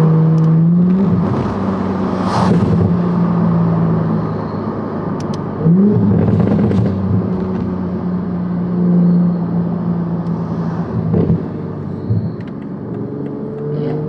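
Toyota Supra's B58 turbocharged inline-six with a titanium aftermarket exhaust and catted downpipe, running under way at fairly steady revs. The engine pitch rises briefly about a second in and again near six seconds in.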